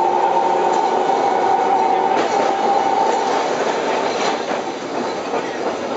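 Calcutta electric tram running along its street rails: a rumbling rattle, with a steady high whine through the first half that fades away after about three and a half seconds, and a few faint clicks.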